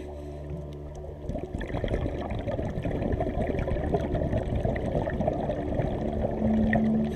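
Underwater bubbling and crackling from scuba divers' exhaled regulator bubbles, an irregular low gurgle with small clicks.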